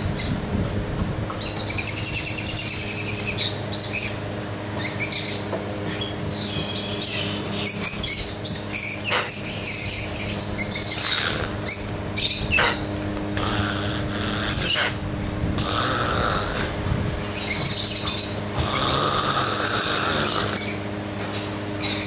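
Birds chirping in repeated bursts of a second or two, over a steady low hum.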